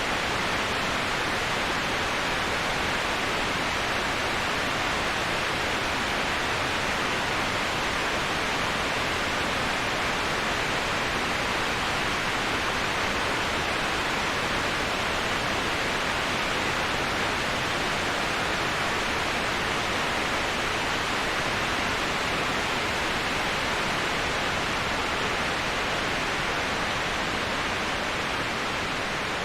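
Waterfall rushing: a steady, unbroken hiss of falling water, fullest in the middle and upper range.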